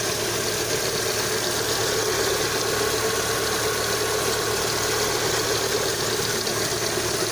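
Lada Kalina 2's VAZ-21126 engine idling steadily from a cold start. Only a barely audible ticking comes from the valvetrain, with no clear hydraulic lifter knock; the owner gets that knock only on a hot engine under load.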